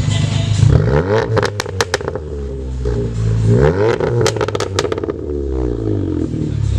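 Straight-piped, stage 2 tuned Volkswagen Golf R's turbocharged four-cylinder accelerating hard. The exhaust note rises in pitch twice, each climb ending in a burst of crackles and pops, then falls away steadily near the end.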